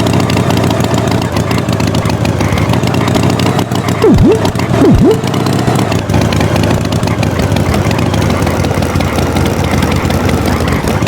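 Tractor engine running steadily. About four and five seconds in, two quick swooping tones each drop steeply and rise straight back up.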